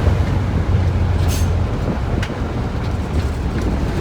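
Diesel locomotive engine running with a steady low rumble, with a short high hiss about a second in.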